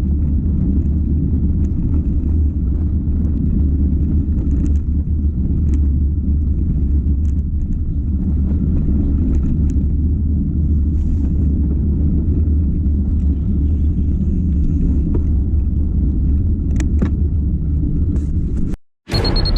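Wind rumbling steadily on the microphone during a mountain bike ride, with faint clicks and rattles from the bike; it cuts off abruptly near the end.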